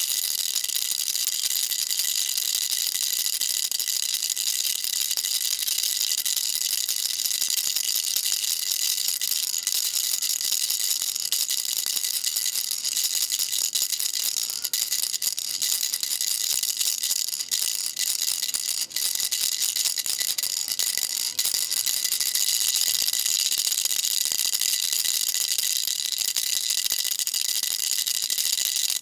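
Baby rattle shaken continuously: a dense, steady, high-pitched rattling of small pellets inside, with a few brief dips in the middle.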